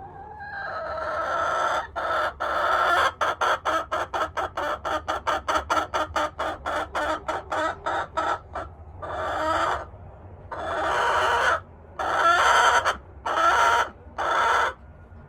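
A Buff Orpington chicken calling loudly. It starts with a rising drawn-out note, goes into a fast run of short clucks at about four a second, then gives several longer, drawn-out squawks with pauses between them.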